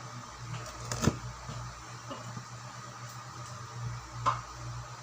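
Two short, sharp clinks of kitchen utensils or dishes, one about a second in and one past four seconds, over a steady low hum.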